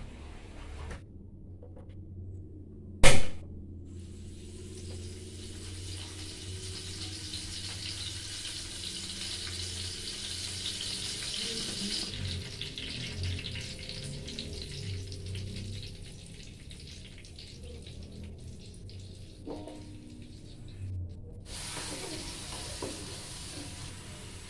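Ground spice paste frying in a wok, a steady sizzle that builds and then slowly eases. A single sharp knock about three seconds in is the loudest sound.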